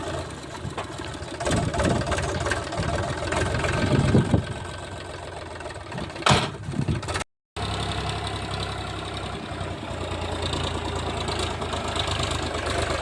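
Powertrac tractor's diesel engine running steadily while pulling a loaded trolley, with several loud knocks and clatters in the first half, the loudest about four and six seconds in. The sound cuts out briefly just after seven seconds, then the engine runs on evenly.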